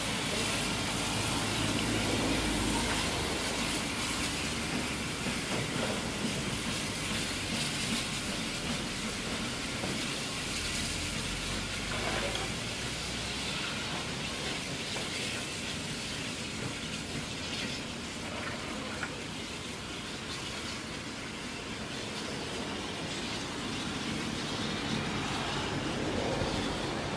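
Steam-hauled train running on the rails: a continuous rolling rumble of wheels and carriages, dipping a little in the middle and building again near the end.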